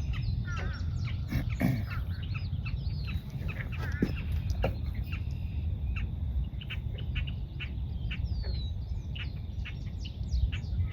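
Several marsh birds calling at once: a busy mix of short chirps, chips and down-slurred whistles, over a steady low rumble.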